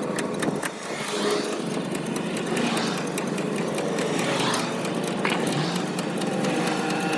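Road traffic passing close by: engines and tyre noise swell and fade several times, with faint clicking over a steady rumble.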